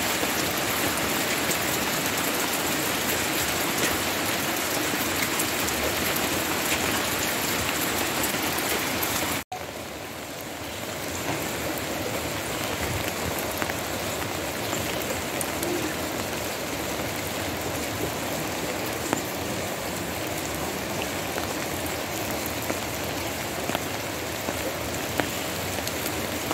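Steady rain shower falling on leaves and foliage. The sound cuts out for an instant about a third of the way in, then carries on a little quieter.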